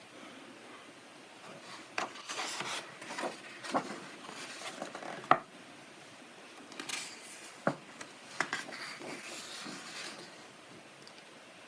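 Paper pages of a coloring book being turned and handled: irregular rustles with scattered light taps, the sharpest a click about five seconds in.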